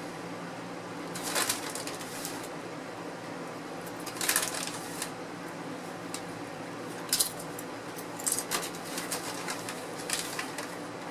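Crunchy Doritos Flamin' Hot Nacho tortilla chips being bitten and chewed, in about five short bursts of crunching, over a steady low hum.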